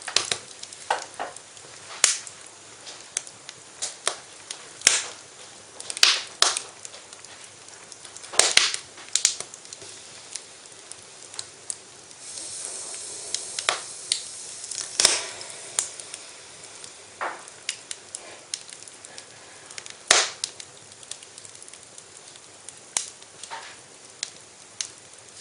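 Wood fire in a fireplace crackling, with irregular sharp pops over a faint steady hiss and a louder stretch of hissing around the middle.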